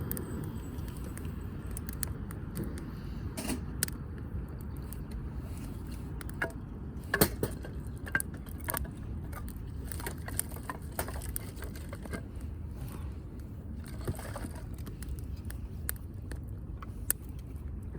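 Firewood burning in a fire grill, crackling and popping irregularly over a steady low rumble, with the loudest pops about seven seconds in.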